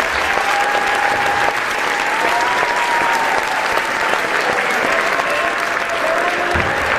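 Large audience applauding steadily, with cheering voices and long calls that rise and fall in pitch above the clapping.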